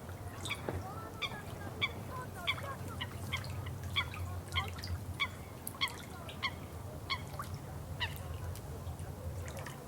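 A bird calling over and over in short, evenly spaced notes, about one and a half a second, over a low steady hum.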